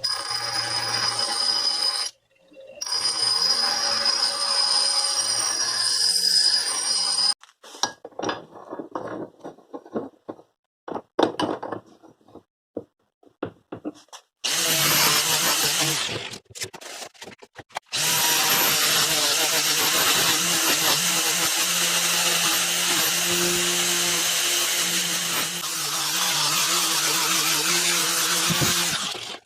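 Electric power tool running steadily in several stretches that start and stop abruptly, with a stretch of scattered clicks and scrapes in the middle.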